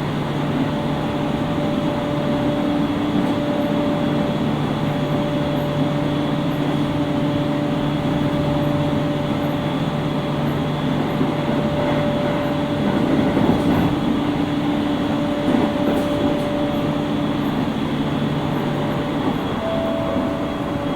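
Interior running sound of a JR East 701 series 5500-subseries electric train, heard in the motor car KuMoHa 701-5506: a steady drive hum made of several held tones over the rumble of wheels on rail as the train runs at speed between stations. A few short clicks come through in the middle, and a slightly higher tone joins the hum near the end.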